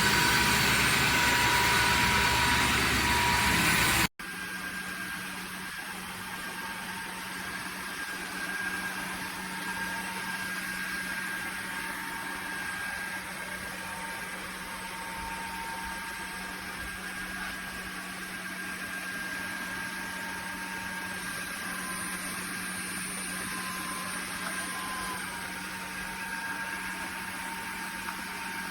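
Dreame H12 Pro cordless wet-dry vacuum-mop running loud with a steady whine. About four seconds in, the sound cuts off abruptly and gives way to a quieter, steady machine hum with a low tone.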